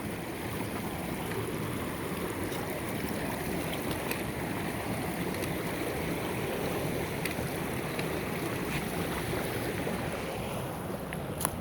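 Wind buffeting the microphone: a steady rushing noise with a rumbling low end, broken by a sharp click near the end.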